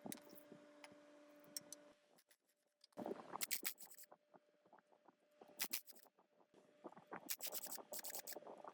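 Hand work on the generator's metal parts: three short bouts of scraping, with light clicks and knocks between them, over a faint steady hum.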